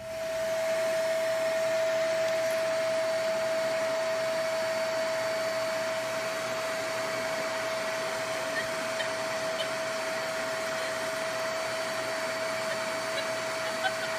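A small electric motor-driven blower appliance running steadily: an even rush of air with one constant whine, starting up at the beginning.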